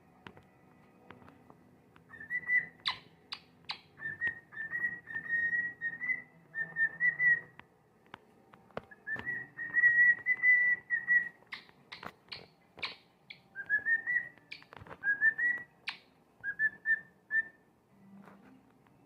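Cockatiel whistling its song: runs of wavering whistled notes mixed with short sharp chirps, in two stretches with a brief pause between them, stopping near the end.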